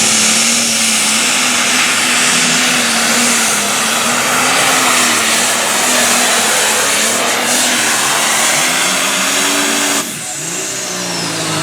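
Light limited pro stock diesel pulling tractor running at full throttle under load as it drags the sled, its engine pitch wavering. The sound drops sharply about ten seconds in and the engine pitch sinks away.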